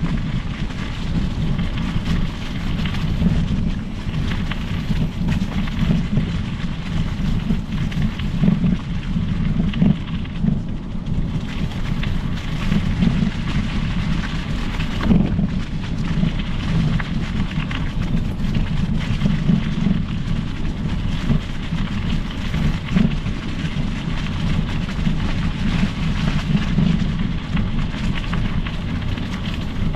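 Steady low noise of a mountain bike ride: wind buffeting the microphone over the tyres rolling on the trail.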